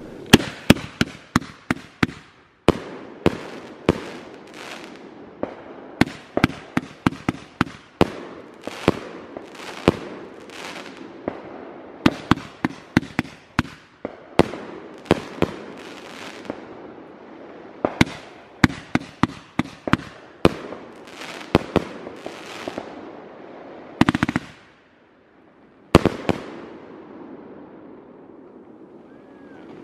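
Fireworks going off in rapid volleys of sharp bangs, several a second, with crackling hiss between them. Near the end the firing stops for a moment, one last loud bang follows, and the crackle fades away.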